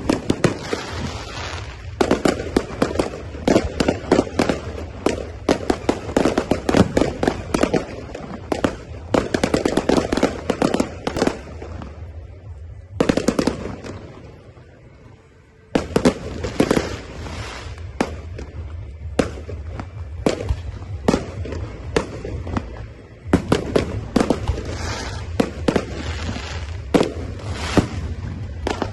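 Fireworks going off in rapid volleys of bangs and crackling. Partway through it dies down to a brief lull, then loud volleys start again suddenly.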